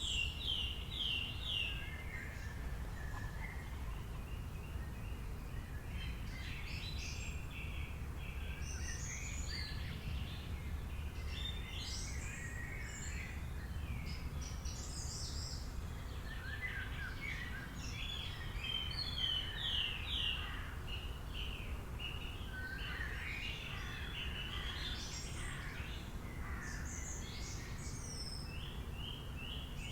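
Wild birds chirping and singing in short, overlapping phrases, some as quick runs of repeated high notes, over a steady low background rumble.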